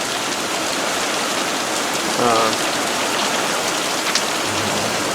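Monsoon rain falling steadily as a storm eases off: an even, dense hiss with the odd single drop ticking out close by.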